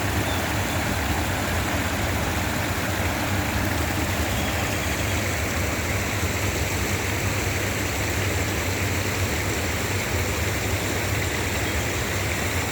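Steady rush of water from a small artificial waterfall and rocky stream, with a constant low rumble underneath.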